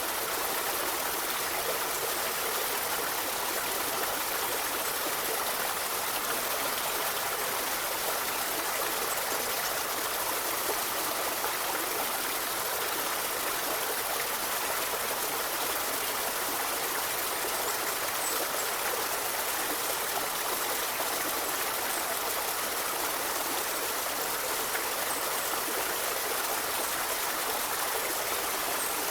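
River water flowing and rushing steadily, an even, unchanging hiss of running water.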